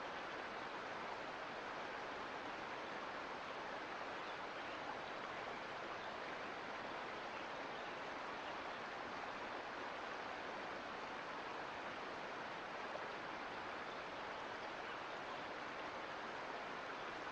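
Sierra Nevada mountain creek flowing with a steady, even rush of water.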